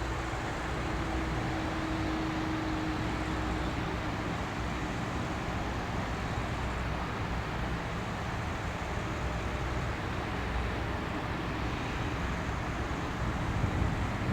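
Boeing 767-300F freighter taxiing, its twin jet engines giving a steady distant hum and hiss, with a faint tone that fades out about four seconds in. Wind buffets the microphone.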